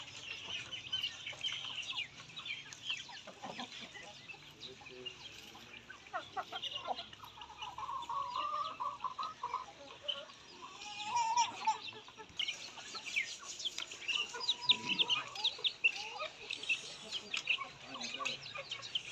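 Chickens calling: many rapid, high, short peeps and chirps, with a few longer, lower clucking calls in the middle.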